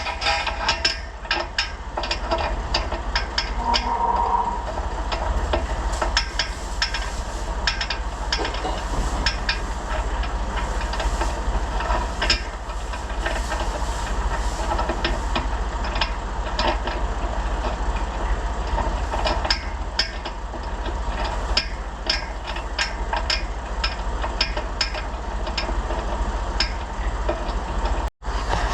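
Small tractor engine running steadily, with frequent clanks and knocks over a hissing noise.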